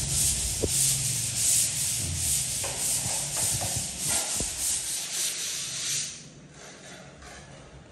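Sandpaper rubbing over a wall in repeated hand-sanding strokes, smoothing the surface before paint. The strokes stop about six seconds in.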